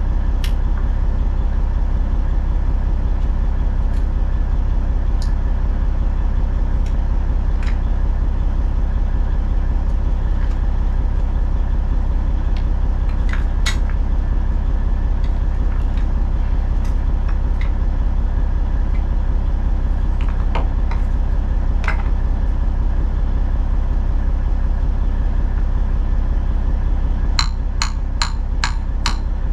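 Dump truck's diesel engine idling steadily, with scattered metallic clinks and knocks over it. Near the end comes a quick run of sharp taps, several a second.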